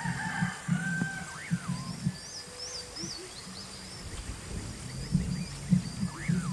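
Birds calling in the open: a quick rising-and-falling whistle heard about a second in and again near the end, and a run of short high chirps around the middle, over irregular low pulsing.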